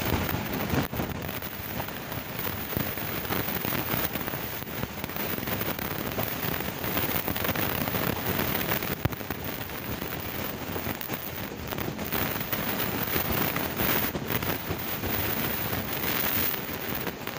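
A moving passenger train heard from an open coach door: a steady rushing of wind and wheels on the rails.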